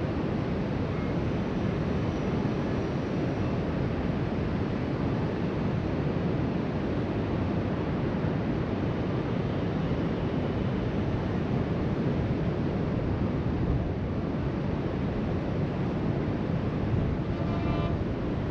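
Steady wash of surf breaking along the beach below, mixed with wind buffeting the microphone. A brief pitched sound, like a distant voice, comes in near the end.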